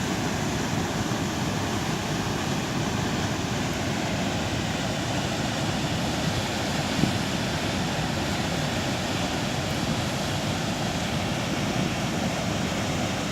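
A waterfall on a river in full flood: heavy water pouring down and crashing below, heard as one steady, unbroken rushing noise.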